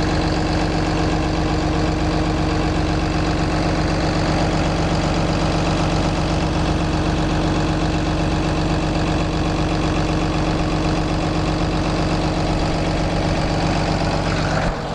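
Cummins ISB 6.7-litre inline-six turbo diesel running at a steady idle.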